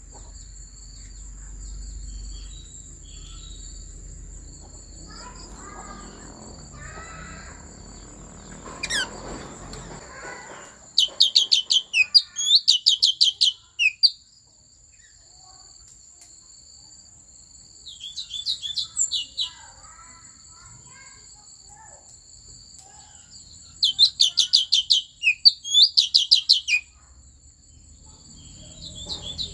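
Thanh tước songbird singing in three bursts of rapid, loud chirping trills, with quieter chirps between them. A steady high-pitched whine runs underneath.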